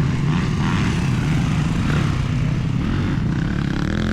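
Motocross dirt bikes running on the track, a steady engine drone with no break.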